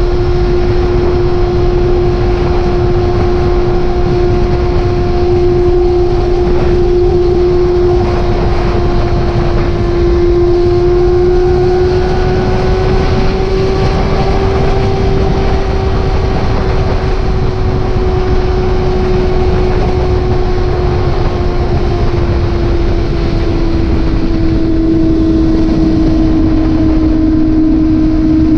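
Motorcycle engine at a steady cruise, one constant drone that rises slightly midway and eases a little lower near the end, under heavy wind rush.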